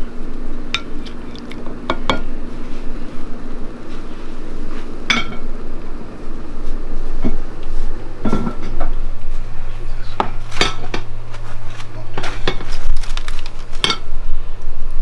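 Dishes and cutlery clattering: scattered knocks and clinks of plates, pans and utensils being handled, over a steady low hum.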